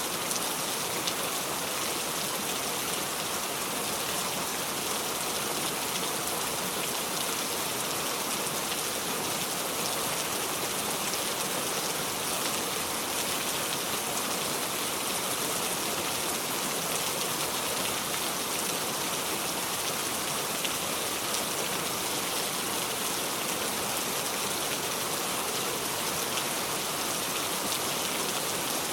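Steady heavy rain falling and pattering on surfaces, an even dense hiss with fine scattered drop ticks and no thunder.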